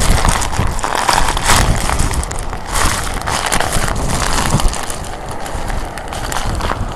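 Typhoon-force wind buffeting the phone's microphone: a heavy rumbling rush with gusts that swell and ease every second or so, easing slightly in the second half.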